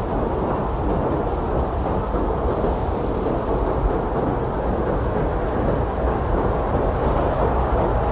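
Blizzard wind blowing steadily as a deep, low rush with no single gust standing out.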